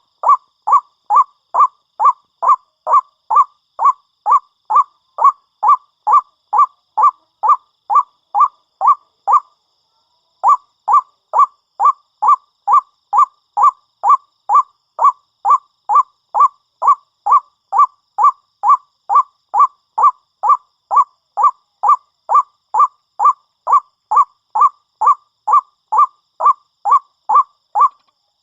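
White-breasted waterhen (ruak-ruak) calling: one loud, honking note repeated about twice a second in a long steady series, with a short break about ten seconds in.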